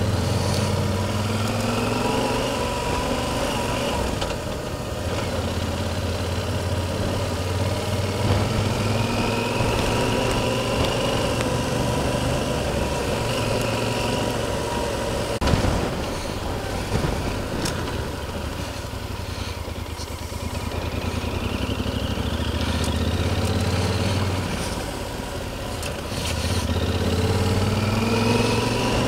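Yamaha Super Ténéré motorcycle engine running on the move, its pitch rising several times as it accelerates, over wind noise. One sharp knock about halfway through.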